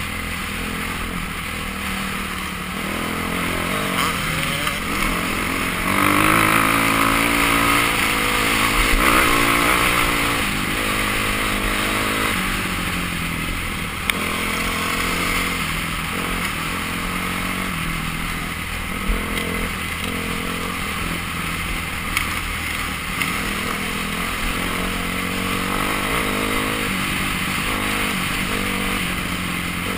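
Dirt bike engine running as it is ridden, its note rising and falling with the throttle, loudest about six to ten seconds in, with a few sharp knocks.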